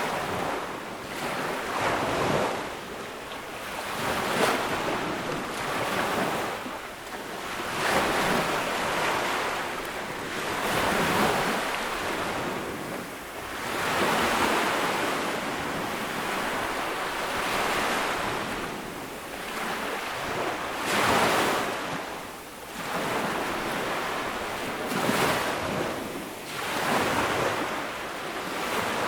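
Small ocean waves breaking and washing up a sandy beach, one after another every two to three seconds, with a steady hiss of surf between them.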